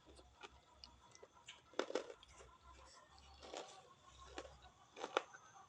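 Close chewing and mouth sounds of someone eating, with a few sharper smacks or crunches: about two seconds in, at three and a half seconds and near the end.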